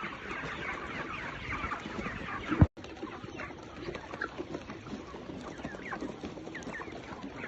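A flock of 40-day-old chickens calling and clucking, many overlapping short calls at once. About two and a half seconds in, a sharp click is followed by a split-second dropout.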